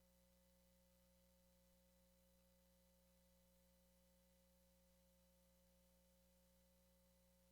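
Near silence: a faint, steady hum with a few constant tones and hiss, unchanging throughout.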